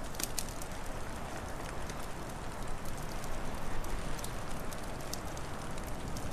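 Wood fire crackling with a few sharp pops, a small cluster at the start and a couple near the end, over a steady low rumbling wind noise.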